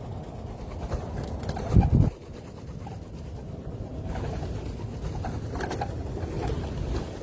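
Doves cooing at a bird feeding spot over a steady low background rumble, with a brief loud low rumble about two seconds in.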